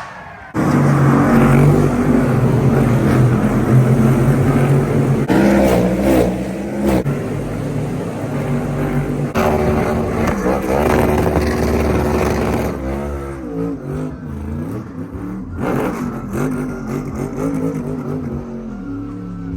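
A field of NASCAR Cup Series stock cars' V8 engines firing up at once about half a second in, then running loud together with throttles blipped in rising and falling revs. The engine noise eases off somewhat after about 13 seconds.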